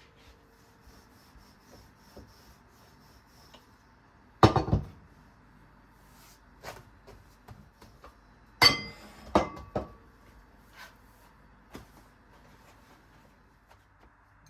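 Household objects being handled: scattered light ticks, with a loud clatter of knocks about four and a half seconds in and a second group of knocks around nine seconds in, one of them briefly ringing.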